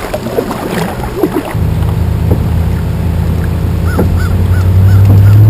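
A steady low droning hum sets in after about a second and a half and grows louder, with a quick run of short, repeated bird chirps near the end.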